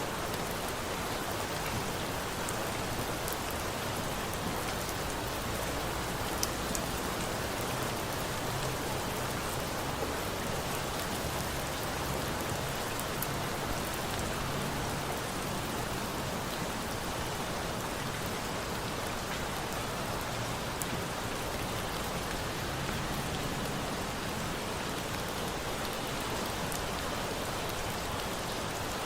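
Steady rain falling, with a few faint sharp crackles from a bonfire.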